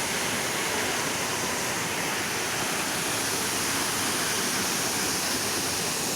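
Steady rush of falling water, an even roar of spray and splashing that does not change.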